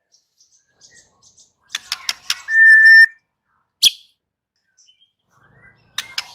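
White-rumped shama singing: a few sharp clicking notes, then one long steady whistle, a single sharp note near the middle, and more clicking notes near the end, with short pauses between phrases.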